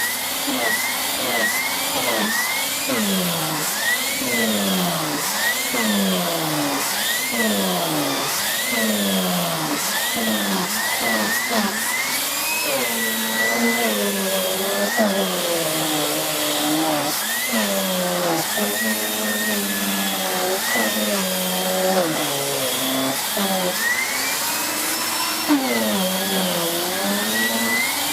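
Miele S6 (C2 Compact) cylinder vacuum cleaner with its 2000 W motor running steadily while being pushed back and forth. The pitch of its hum falls and rises with each stroke, about once a second.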